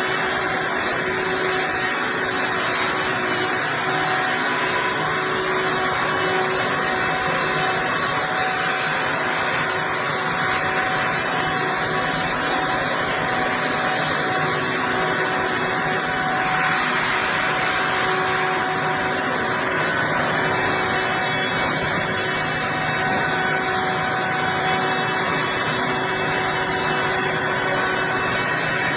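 Chainsaw running steadily at an even pitch and level, as in a long milling cut through wood.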